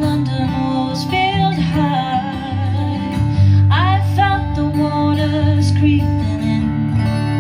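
A woman singing with guitar accompaniment, holding long notes with vibrato over steady low guitar tones.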